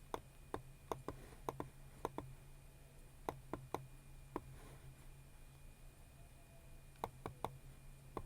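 Sparse, irregular sharp clicks of a computer mouse and keyboard, single and paired, in three small clusters with pauses between: about nine in the first two seconds, five more a little past the middle, then a few near the end.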